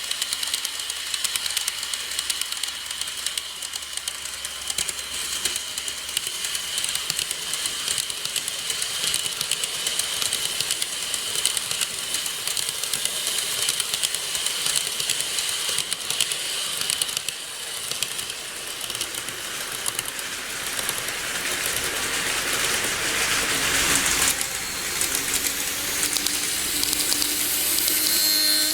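Model electric train running on its track: a steady motor whine over a hiss of rolling wheels and fast fine clicking from the rail joints, swelling about two-thirds of the way through, with rising whine tones near the end.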